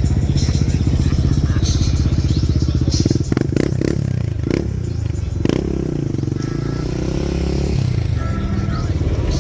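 A loud vehicle engine running close by with a low, rapidly pulsing rumble; about halfway through its note rises and falls as it revs.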